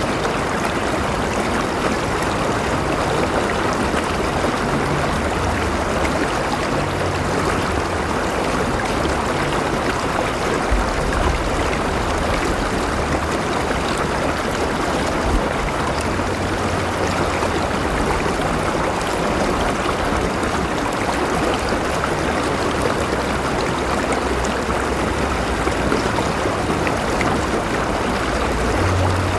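River water flowing steadily over rocks, a continuous rushing and gurgling with a low rumble underneath.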